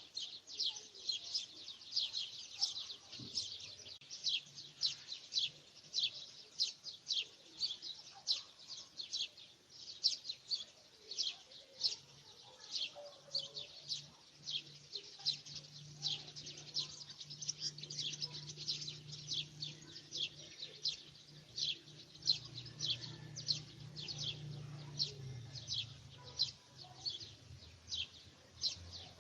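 A bird chirping over and over, short high notes about two a second in a steady series.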